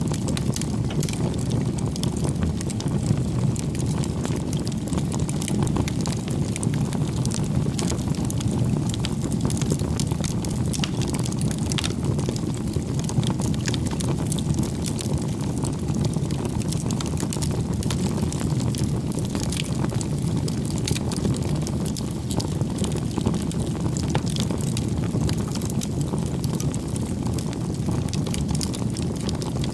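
Campfire burning: a steady low rumble of flames with many small crackles and pops of burning wood.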